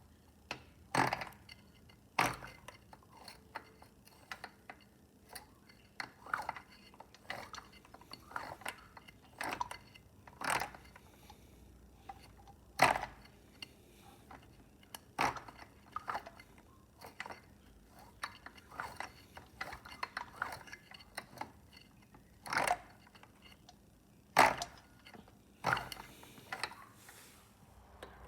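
Metal parts and tools clinking and clicking as they are handled by hand, in irregular sharp knocks with quiet gaps between them.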